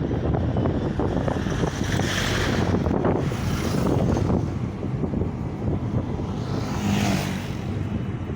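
A car in motion, with a steady low rumble of engine and road noise and wind buffeting the microphone. The higher hiss swells twice, about two seconds in and again near the end.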